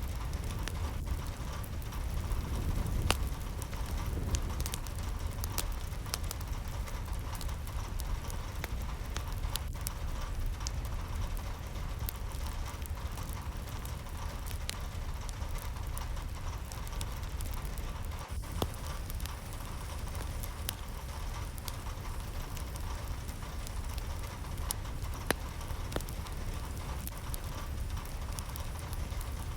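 Steady rain with scattered sharp drips and drop impacts.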